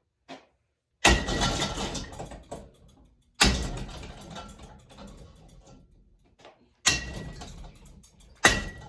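Four loud crashes, each followed by a clattering rattle that dies away over a second or two, with a brief metallic ring: a running ceiling fan being smashed, its blade arms taking the blows.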